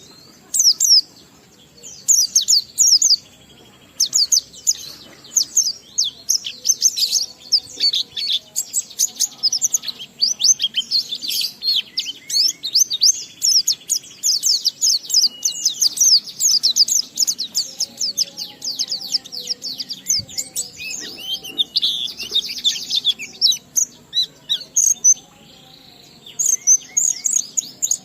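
White-eye (pleci) singing a long, nearly unbroken run of rapid, high twittering chirps and trills, the 'ngalas' song style with strung-together mimicked phrases. There are brief pauses about a second in and again near the end.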